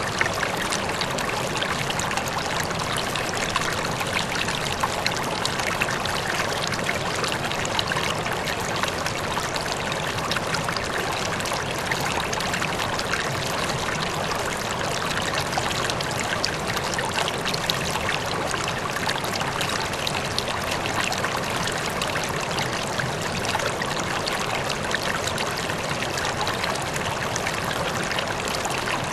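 River water flowing steadily over rocks, a continuous rushing with many small splashes and trickles.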